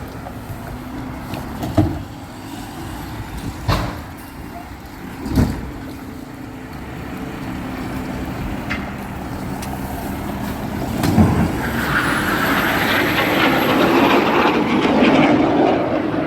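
Garbage truck running, its engine humming steadily, with four sharp clanks spread through the first eleven seconds. A louder, rougher mechanical noise builds over the last four seconds.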